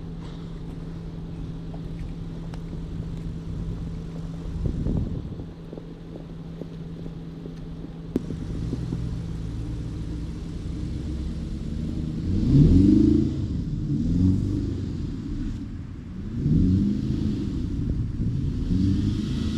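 BMW X5's twin-turbo V8 running steadily, then revving up and back down twice in quick sweeps, as the SUV is driven hard on a snowy road.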